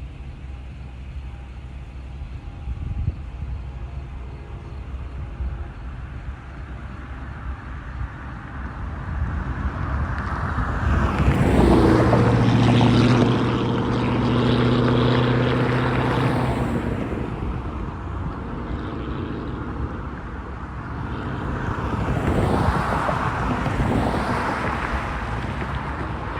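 Road traffic passing on a street. A vehicle with a droning engine swells to its loudest about 12 seconds in and fades by about 17 seconds, and a second, smaller pass comes a few seconds before the end.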